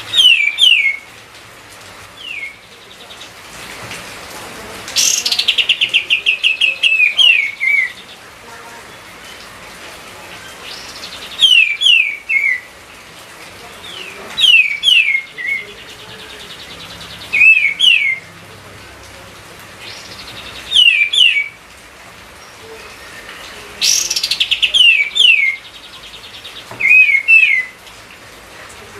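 A kapas tembak bulbul singing hard in an agitated, full-voiced (gacor) song. It sings loud bursts of sharp, downward-sliding whistled notes and quick rattling trills, with a new phrase every few seconds.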